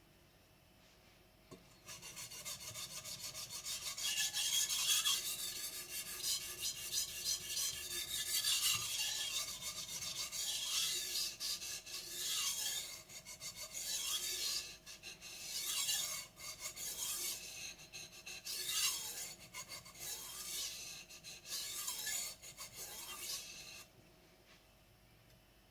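Blue carbon steel gyuto blade being stroked back and forth on a wet Japanese whetstone: repeated scraping strokes. They start about two seconds in and stop near the end.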